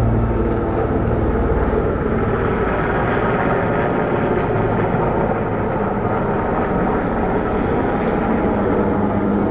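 A nearby engine running steadily, a low rumble with a droning hum whose pitch shifts a little a couple of times.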